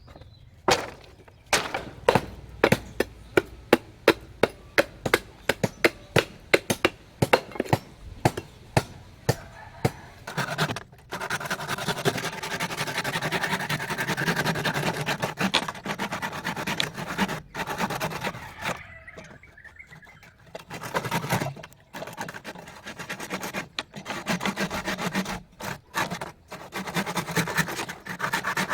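Hand-tool work: a long run of sharp knocks, about two to three a second, then steady rasping scrapes that run on with short pauses.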